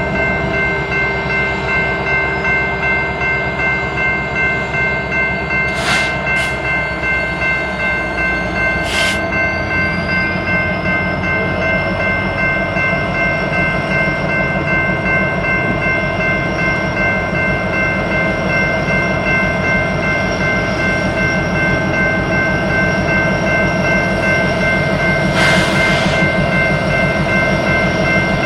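BNSF coal train rolling by with a steady rumble and an even pulsing beat, over several steady high-pitched tones. A few short sharp clanks come through, twice in quick succession early and once near the end.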